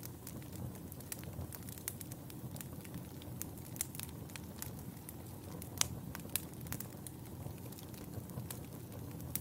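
Wood fire burning in a fireplace: a steady low rumble of flames with frequent irregular sharp crackles and pops, a louder pop a little past halfway.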